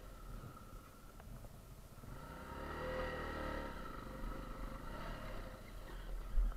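Trail motorcycle engine running, fading, then swelling to a peak about three seconds in before falling away again. A brief low thump near the end.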